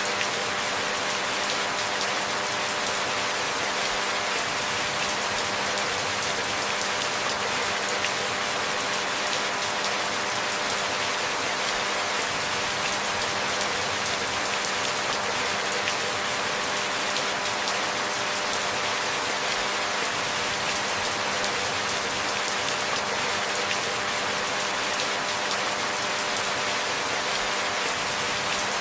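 Steady rain falling, a dense, even patter of drops that does not change.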